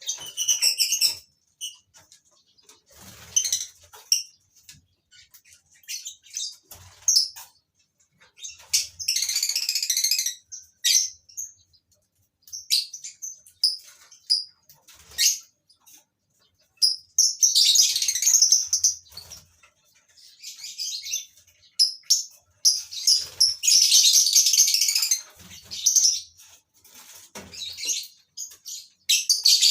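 Colony of lovebirds giving shrill, chattering calls in bursts of a second or two, several times over, with short low thumps between.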